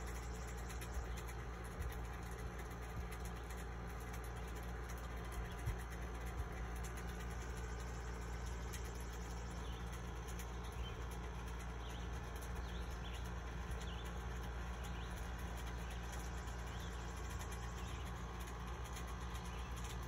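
Steady low outdoor rumble with a few faint, short high bird chirps around the middle and scattered light ticks.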